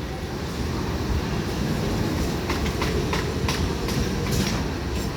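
Electric suburban local train running by, with a steady rumble of wheels on rails and several sharp wheel clicks in the middle.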